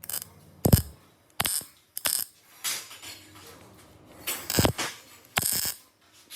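A series of sharp mechanical clicks and clanks, about eight or nine at irregular intervals, with short quiet gaps between.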